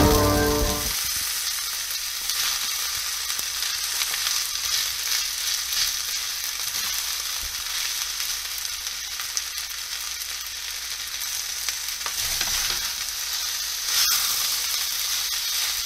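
Soba noodles, rice and vegetables sizzling in a hot frying pan as they are stir-fried, with small clicks and scrapes from the wooden spatula and chopsticks turning them.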